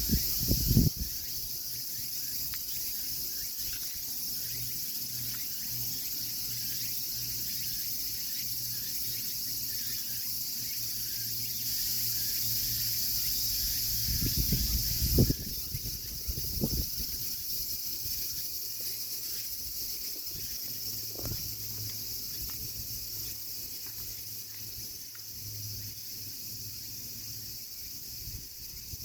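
Steady high-pitched drone of a summer insect chorus, with a few low thumps at the start and again around the middle.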